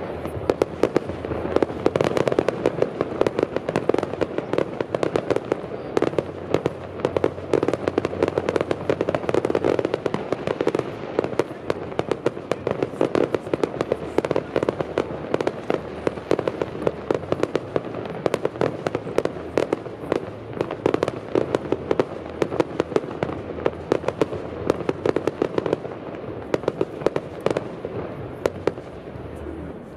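Fireworks display: a dense, unbroken run of bangs and crackles over a steady rumble, thinning slightly near the end.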